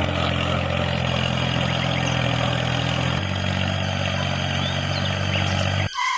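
Small diesel engine idling steadily, its note shifting slightly about halfway through. It cuts off abruptly near the end, and a short electronic beep follows.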